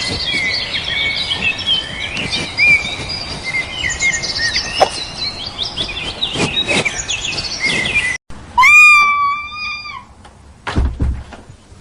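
Many small birds chirping at once in a dense, busy chatter for about eight seconds. It then cuts suddenly to a single long, high, even animal call lasting about a second and a half, followed by a low thud near the end.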